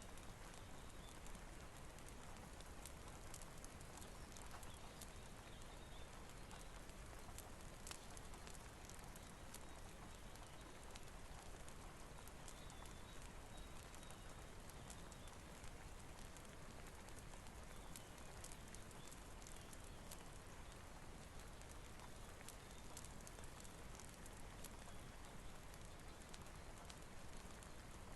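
Faint steady rain hiss with a wood fire crackling, sharp pops scattered irregularly throughout.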